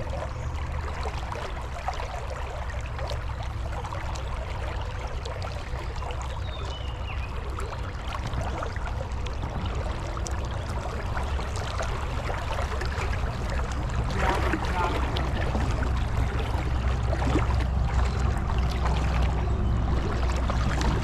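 Creek water running and trickling, with a steady low rumble underneath. It grows louder about two-thirds of the way through.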